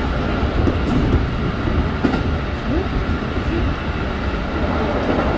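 Keikyu 1500-series commuter train with field-chopper control running at speed, heard from inside the car: a steady rumble of wheels and running gear, with a few light clicks.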